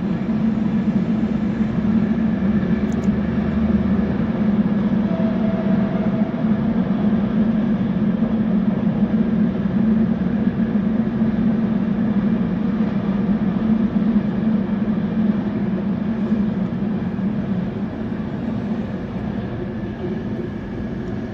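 Container freight train hauled by an E494 (Bombardier Traxx) electric locomotive rolling across a stone viaduct: a steady, loud rumble of wheels and wagons that eases slightly near the end.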